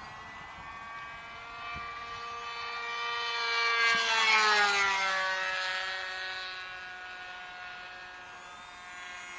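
Radio-control model airplane making a fast low pass: its engine swells to loudest about four seconds in, the pitch dropping as it goes by, then fades away.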